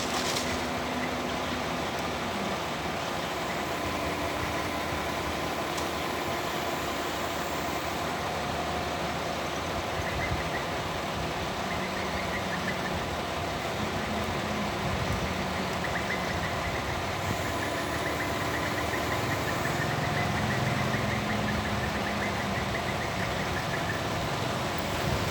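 Excavator's diesel engine running steadily, its pitch shifting now and then.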